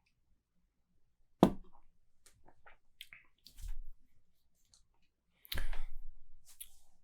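Small handling and mouth noises while someone tastes beer: a sharp knock about a second and a half in, a few faint clicks, and another knock with a brief scuffle about five and a half seconds in.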